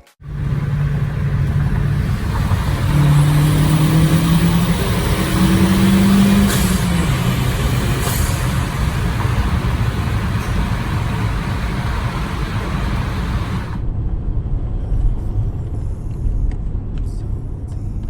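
A car accelerating along a road, its engine note climbing in a few steps over heavy road and wind noise. The hiss drops away suddenly about fourteen seconds in, leaving a low rumble.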